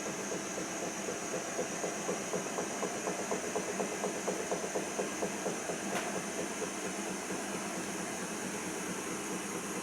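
Siemens iQ front-loading washing machine running after the main wash, the phase set for its spin, with a rhythmic clacking of about four beats a second for the first six seconds. A single sharp click comes about six seconds in, then only a steady hum.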